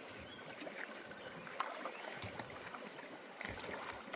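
Light splashing and lapping of water at a kayak as a hooked fish is reeled in, with a few small clicks and knocks.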